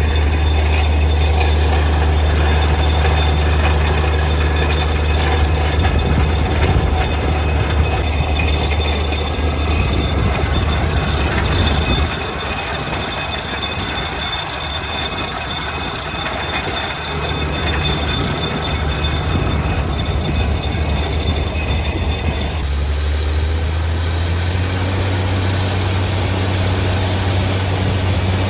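Borewell drilling rig drilling deep into rock: its engine and air compressor run with a loud, steady low hum under a continuous rough clatter and a thin high squeal. The sound eases a little about twelve seconds in, and the engine note shifts again near the end.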